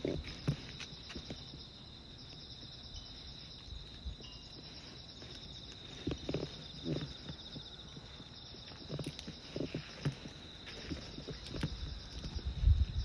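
Insects chirping in a steady high pulsing chorus, with a person's footsteps on the path coming in groups of a few steps. The steps are loudest near the end.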